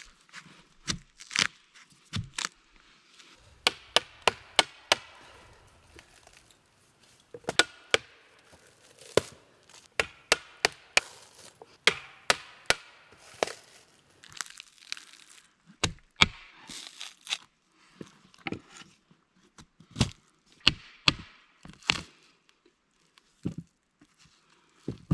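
Wood being chopped and broken: a run of sharp, irregular cracks and knocks, some coming in quick clusters.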